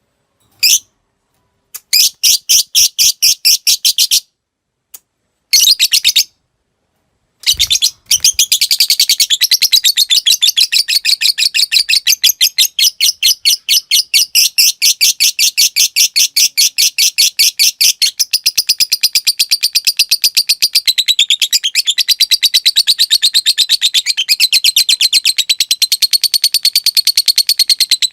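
Lovebird singing: a few short chirps and broken bursts of rapid ticking notes ('ngetik') in the first seconds, then from about eight seconds in one long unbroken 'ngekek', a fast chattering trill of sharp, high, evenly repeated notes.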